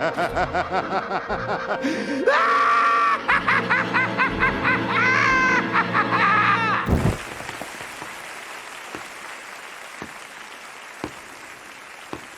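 Rapid, high-pitched laughing over music for about seven seconds, which cuts off suddenly and leaves a low hiss with a few faint clicks.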